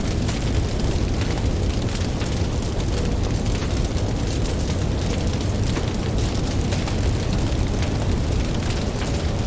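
Campfire crackling with many small, quick pops over a steady low rumble of ocean surf.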